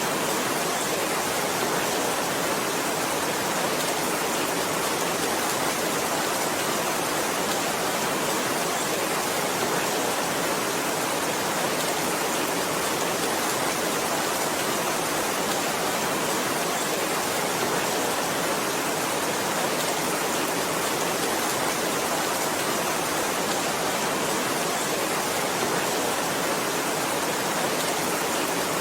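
Heavy rain as a dense, steady hiss, even and unchanging, with no separate drops or thunder standing out.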